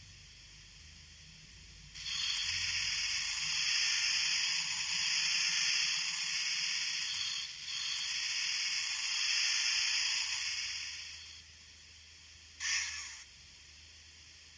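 DCC sound decoder in a Kato N-scale D51 steam locomotive model playing a long steam hiss, broken briefly about halfway through, followed by a short burst of hiss near the end.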